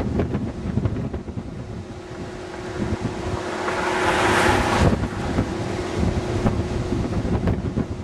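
Strong wind buffeting the microphone with a low rumble. A louder rushing swells about three seconds in and drops away suddenly about two seconds later, over a steady faint low tone.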